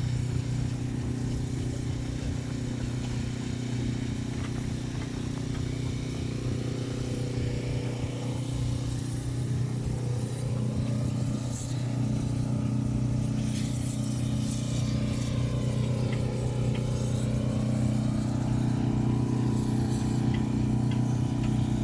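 An engine running steadily at a constant speed, an even low hum that does not change throughout.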